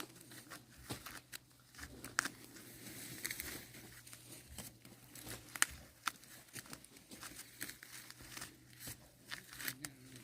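Dry corn plants rustling and crackling, with irregular sharp snaps, as ears of corn are picked by hand.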